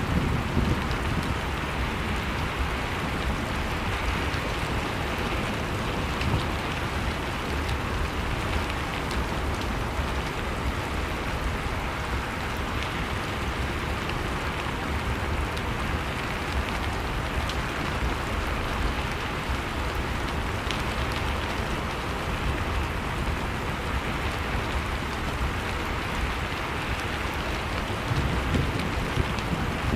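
Blizzard and fireplace ambience: steady rushing storm wind with a low rumble, and scattered faint pops of a crackling wood fire.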